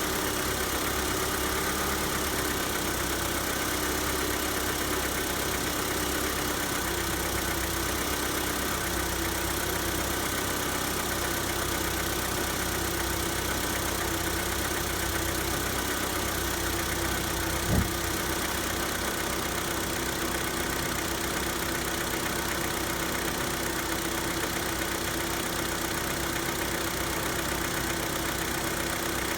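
Hyundai Santa Fe's 2.4-litre G4KE four-cylinder engine idling steadily from cold, with the cold-engine knock the owner asks about. One brief thump about eighteen seconds in.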